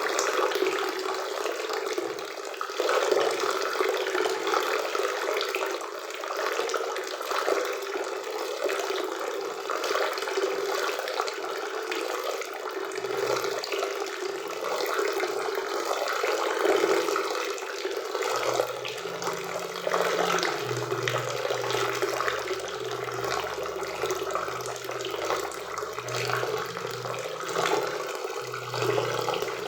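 A waterfall on a forest river: water falling and rushing in a steady, even roar.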